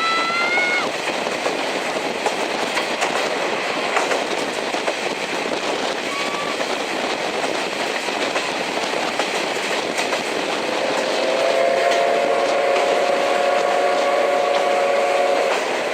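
Passenger coaches of a steam-hauled train running on jointed track, a steady rolling noise with clickety-clack. About ten seconds in, the locomotive's steam whistle sounds one long blast of about five seconds, the loudest thing here.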